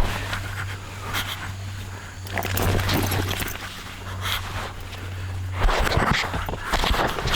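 A steady low hum that cuts off abruptly about three-quarters of the way through, with scattered scraping and handling noises.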